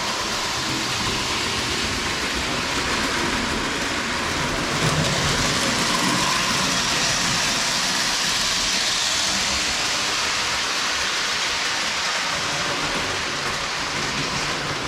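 Lionel postwar O-gauge Berkshire steam locomotive and its cars running on tinplate track: a steady rumble and rattle of wheels and motor, louder for a few seconds around the middle.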